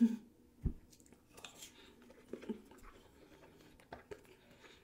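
Close-miked mouth sounds of someone eating raw salmon sashimi: soft wet clicks and smacks of chewing, with one low thump under a second in.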